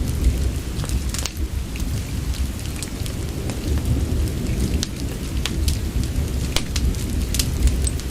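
Steady soft rain with a deep, continuous low rumble, and frequent sharp crackles and pops from a wood fire in a fireplace.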